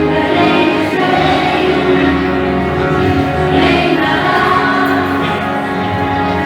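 Christian praise song with a group of voices singing over instrumental accompaniment.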